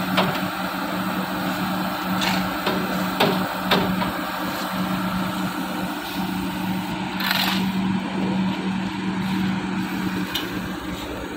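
An engine running steadily with a constant hum, over a noisy rumble, with a few sharp cracks and crunches scattered through, the loudest about seven seconds in.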